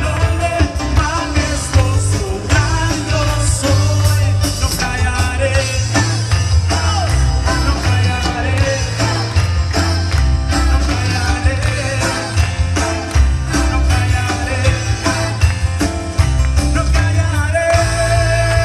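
Live band playing an upbeat Latin-flavoured worship song, with a steady bass, drums and a singing voice.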